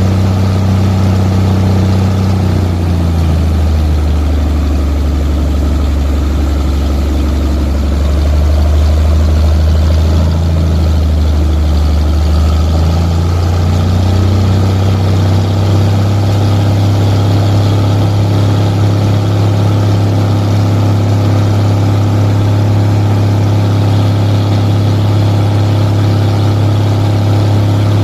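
An engine running steadily with a loud low hum that drops a little in pitch from about 3 to 13 seconds in, then settles back.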